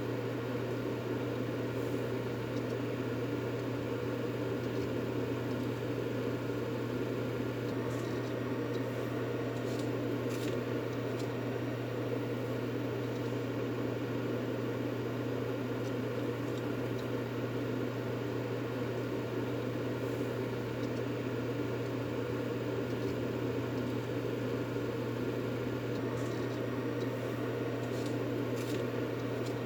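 Steady white noise for calming a baby to sleep: an even, fan-like hum with a low drone beneath a hiss.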